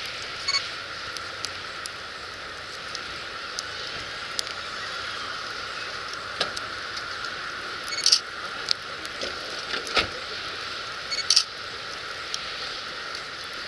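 Wood fire crackling, a steady hiss broken by scattered sharp pops, the loudest about eight and eleven seconds in.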